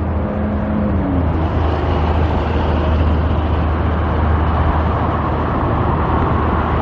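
Road traffic passing close by: a steady rumble of engines and tyre noise that swells about a second in and holds.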